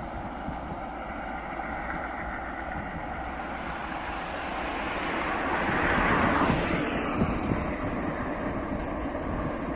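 Trains passing on the railway: a steady rumble and rush that swells to its loudest about six seconds in as a train goes by close, with a couple of sharp clacks just after, then eases off.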